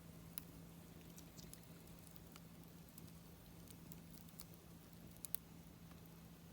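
Wood fire crackling faintly: scattered sharp pops and snaps, two louder ones close together near the end, over a steady low hum.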